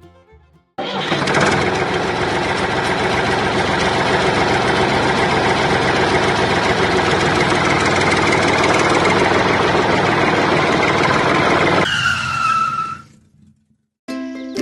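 An engine starts abruptly and runs loud and steady, then cuts off about twelve seconds in and winds down with a falling tone.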